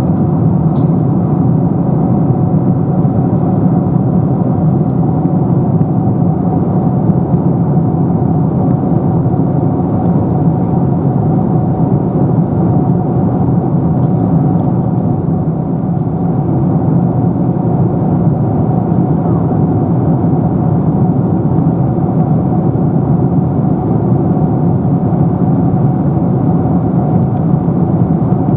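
Steady cabin noise inside a Boeing 747-400 airliner in cruise: an even, low rushing of airflow and engines with a faint steady hum running through it.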